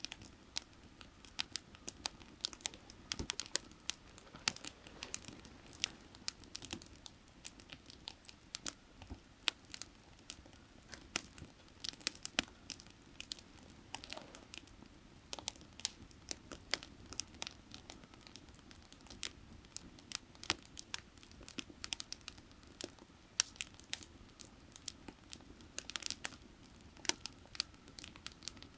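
Firewood burning, crackling and popping irregularly with many sharp snaps, over a steady low rush of creek water.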